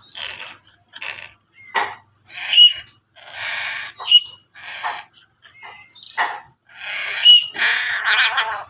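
Young crow giving harsh, raspy begging calls over and over, about one a second, with short high chirps between them, as it begs to be hand-fed.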